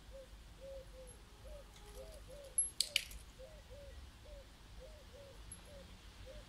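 A bird calling a steady series of short, low, cooing notes, about two a second. Two sharp clicks come close together midway.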